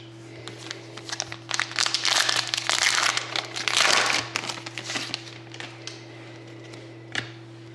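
Foil wrapper of a hockey trading-card pack crinkling as it is torn open and handled, densest in the middle, with a few sharp clicks after. A steady low hum runs underneath.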